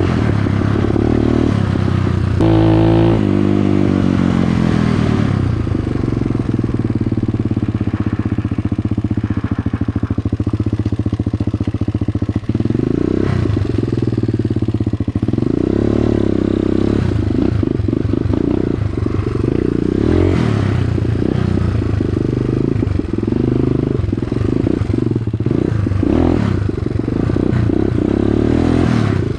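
Dirt bike engine running under way, its pitch rising and falling as the throttle opens and closes, with a quick rev-up about two to three seconds in.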